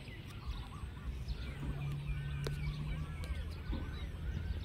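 Many birds calling in short, arching chirps that repeat throughout, over a low rumble, with a low steady hum for about a second and a half in the middle and a few sharp clicks.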